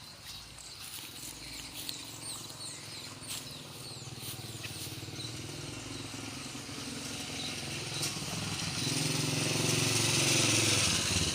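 Motorcycle engine approaching, growing steadily louder and loudest near the end.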